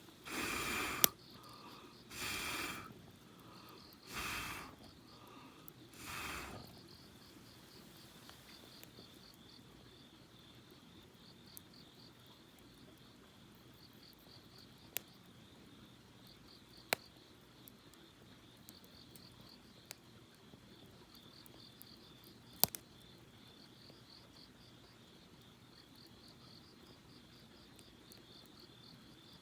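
Crickets chirping steadily in a continuous pulsing trill, with a few sharp isolated pops and snaps from a campfire. In the first seven seconds there are four short, louder noisy bursts about two seconds apart.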